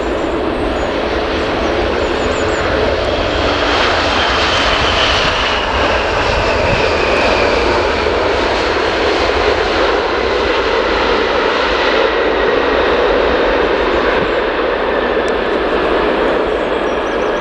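Jet engines of a Boeing 787-9 airliner on arrival, a loud steady rush with a high whine that falls in pitch a few seconds in.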